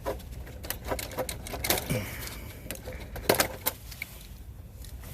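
Irregular clicks and taps of tools, wires and metal terminals being handled while a contactor is wired up, the loudest cluster about three and a half seconds in.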